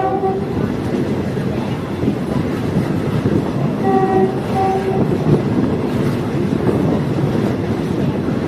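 Diesel multiple-unit train running along the track with a steady rumble, its horn sounding a short blast at the start and then two short toots about four seconds in.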